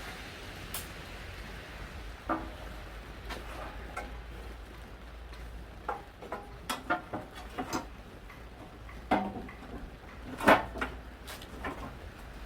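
Irregular metallic clinks and knocks of tools and parts being handled during forklift engine assembly, a dozen or so scattered strikes with the loudest about ten and a half seconds in, over a low steady hum.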